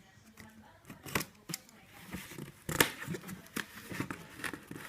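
Irregular sharp snips and clicks of a shoe parcel being cut open and handled, with brief rustling of packaging between them.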